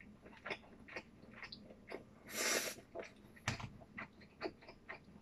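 Close-up chewing of soft rolled omelette: wet mouth clicks and smacks about twice a second. About two seconds in there is a loud breath through the nose, and a second later a single knock.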